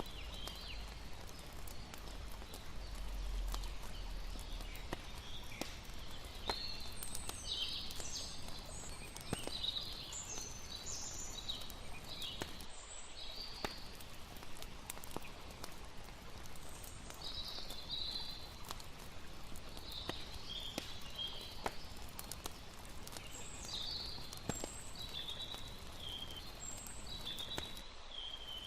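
Layered night ambience: a crackling campfire's scattered pops over a steady hiss of water, with repeated bursts of high-pitched chirping.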